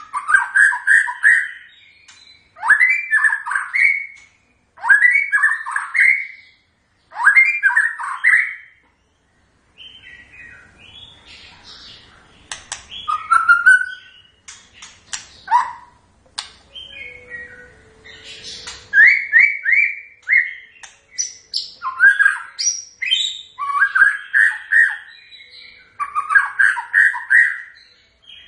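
White-rumped shama (murai batu) singing: short phrases of quick, sweeping notes repeated about every two seconds, with a quieter, more rambling stretch of varied notes in the middle.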